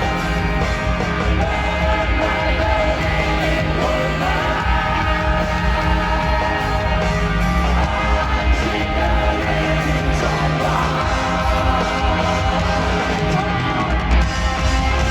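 Rock band playing live, a singer's voice over the band.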